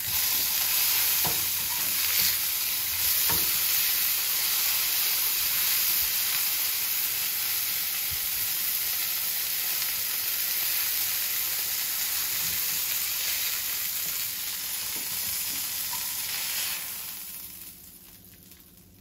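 Chicken burger patties sizzling steadily in hot oil in a frying pan. The sizzle drops away near the end as the patties come out of the pan.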